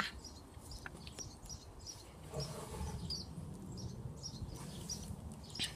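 Faint outdoor background: scattered short bird chirps over a low, steady rumble.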